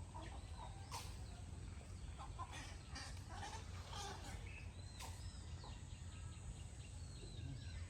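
Outdoor ambience: a low steady rumble with scattered short bird chirps and a few animal calls, and two sharp clicks, one about a second in and one near the middle.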